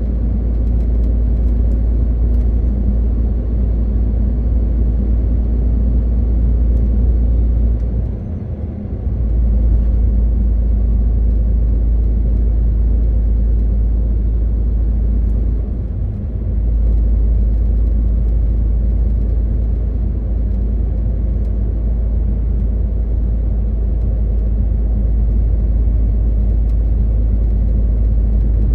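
MAN TGX 18.520 truck under way: its six-cylinder diesel engine runs with a steady low drone over road rumble. The low rumble dips briefly twice, about eight and sixteen seconds in.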